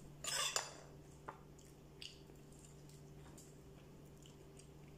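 Quiet eating sounds: a short burst of chewing and mouth noise near the start, then a couple of faint clicks, over a steady low hum.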